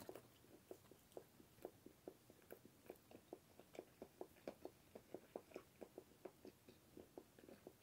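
Faint close-up chewing of a mouthful of microwaved roast beef and cheddar sandwich: a steady run of soft, wet mouth clicks, about three to four a second.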